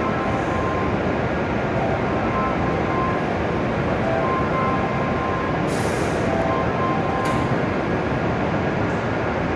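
Steady rushing hum of an E7 series Shinkansen train standing at the platform with its on-board equipment running. Faint short tones sound in the background, and there are two brief hisses about six and seven seconds in.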